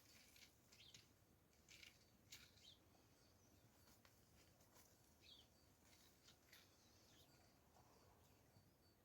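Near silence: faint outdoor ambience with scattered light clicks and a few faint high bird chirps.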